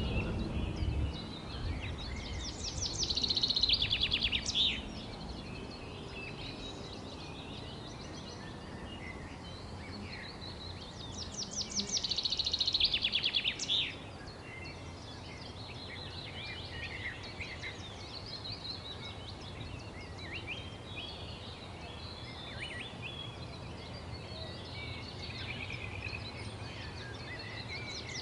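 Several songbirds chirping and singing, with one loud rapid trilled song twice, about two seconds in and again around twelve seconds, over a steady low background rumble.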